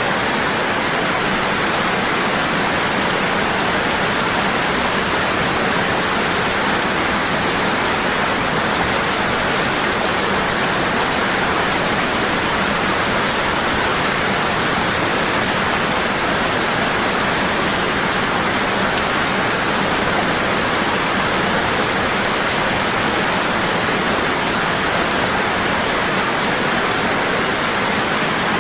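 Waterfall falling strongly and constantly, a steady rushing roar of water with no change.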